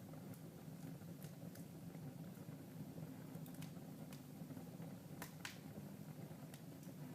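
Wood fire in a fireplace crackling faintly: scattered sharp pops, with a louder close pair about five seconds in, over a low steady hum.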